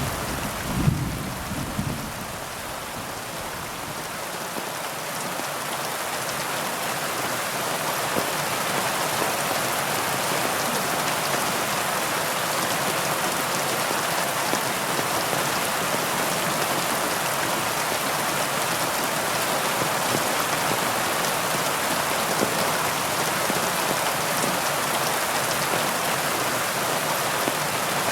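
Heavy rain falling steadily. A low rumble of thunder fades out in the first two seconds.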